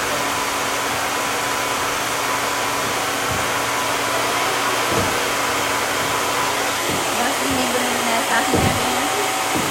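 Handheld blow dryer running steadily: an even airy hiss with a steady motor hum.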